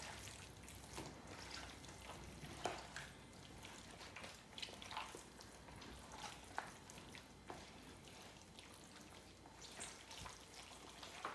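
Faint, irregular wet squishing and small clicks: gloved hands working raw meat around in a bowl of marinade.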